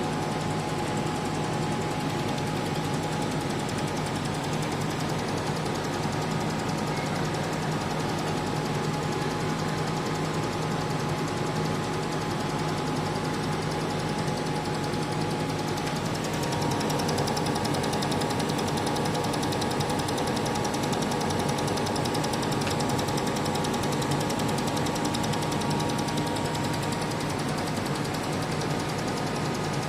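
CNC laser machine running: a steady mechanical whir of its motors and fans with a fine, rapid chatter. The motor tones change about halfway through.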